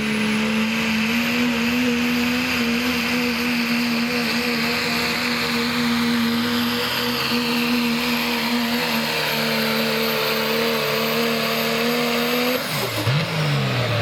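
Turbocharged Pro Stock diesel pickup truck pulling a sled at full throttle: a steady high engine note with a high turbo whistle above it, held for about twelve seconds, then the throttle comes off near the end and the note drops away.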